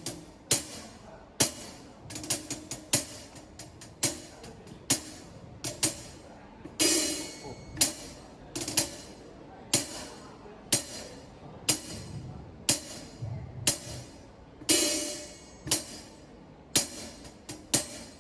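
Drum kit played in a slow, steady groove during a sound check, with a hit about once a second and a crash cymbal about 7 seconds in and again near the end.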